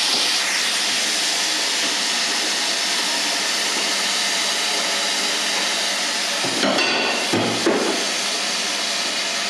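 Minced beef browning in a hot wok, a steady sizzling hiss of frying meat. A few short knocks come in a cluster about seven seconds in.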